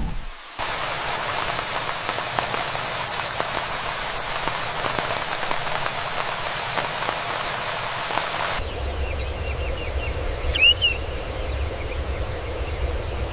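Heavy rain falling steadily, a dense hiss with scattered drop ticks. About eight and a half seconds in it cuts abruptly to a low steady rumble with a few short high calls, the loudest just before the end.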